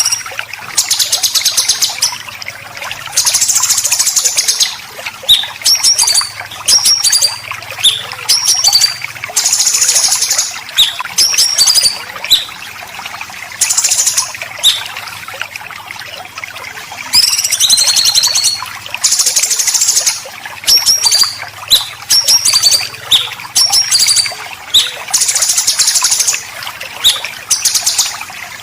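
Songbird giving harsh, rasping besetan calls in long high bursts, some over a second long, alternating with short high whistled notes and repeated over and over.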